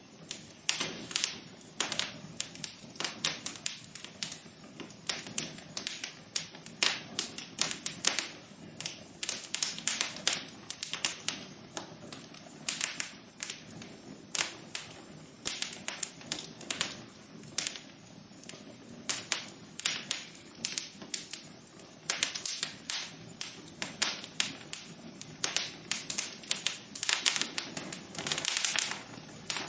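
Fire burning in a fireplace, crackling with many sharp, irregular pops and snaps, several a second, over a soft steady hiss of the flames.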